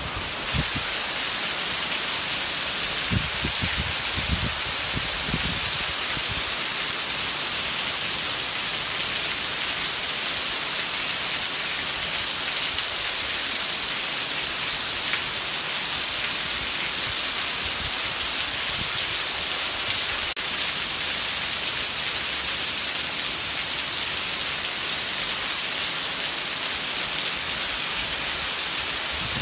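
Heavy rain falling steadily, splashing on a tiled floor and pouring off a roof edge in a dense, even hiss. A few brief low rumbles come about three to five seconds in.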